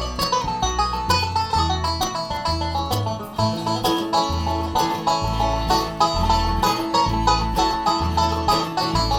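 Live bluegrass band playing an instrumental break: quick plucked-string picking over a bass line that changes note about twice a second.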